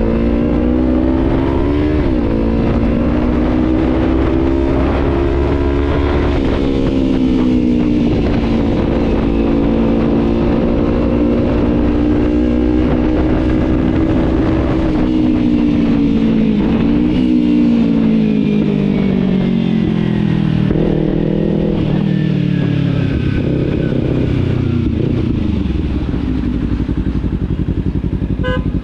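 Kawasaki Z300 parallel-twin engine on the move. It pulls up through the gears with brief dips at the shifts about 2 and 6 seconds in, holds a fairly steady cruise, then drops off as the bike slows before picking up again, over low wind rush.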